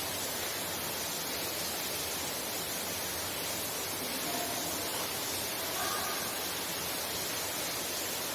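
Heavy rain falling, heard from inside a house: a steady, dense hiss.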